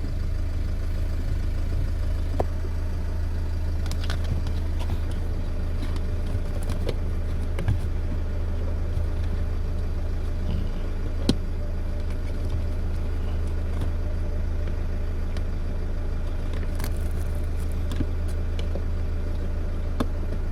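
Car engine idling with a steady low hum, with a few scattered light clicks and knocks over it.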